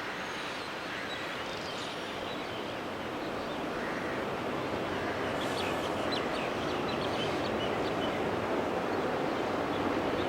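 Aircraft engine noise growing steadily louder as the plane approaches, a rushing roar without a clear pitch.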